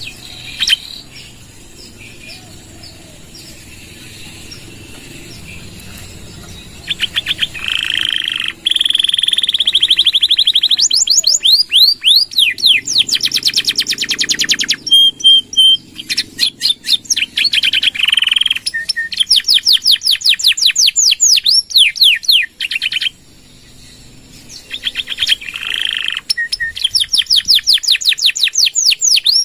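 Domestic canary singing long, very fast trills of rapidly repeated notes and sweeping whistles. It is faint for the first few seconds, loud from about seven seconds in, pauses briefly about two-thirds of the way through, then goes on trilling.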